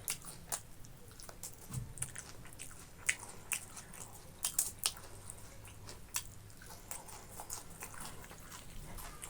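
Close-miked chewing of food, with irregular wet clicks and smacks from the mouth.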